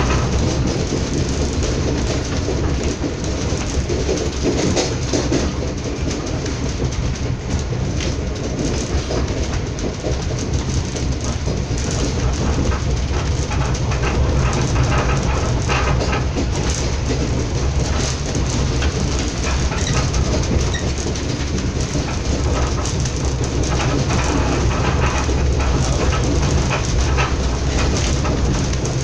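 Moving train heard from inside a passenger carriage: a steady rumble and rattle, with scattered clicks of the wheels over the rails.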